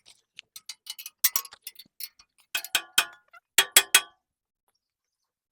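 Metal clinking and tapping of a spanner on bolts and steel parts of a tractor implement while the bolts are loosened: a quick run of sharp clicks and ringing knocks that stops about four seconds in.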